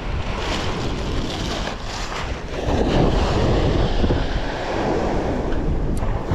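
Wind buffeting the microphone over the wash of sea water, growing louder about two and a half seconds in.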